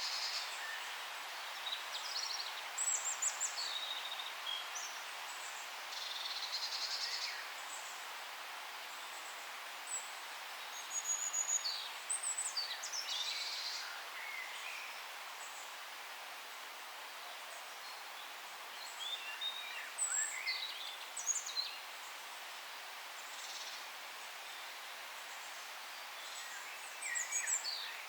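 Forest birds chirping in four short bouts of quick, high, sliding calls, over a steady hiss of forest background noise.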